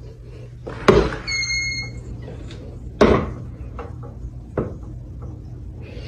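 Two sharp knocks about two seconds apart, with a short steady beep just after the first and a few fainter knocks later, over a steady low hum.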